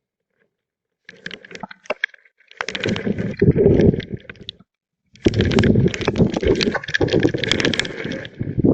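Storm-wind gusts buffeting the microphone in loud bursts of rumbling, crackling noise, cutting off abruptly between the gusts.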